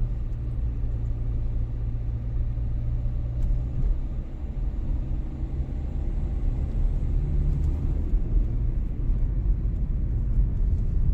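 Steady low rumble of an outdoor night street, with a faint haze above it and no music or speech.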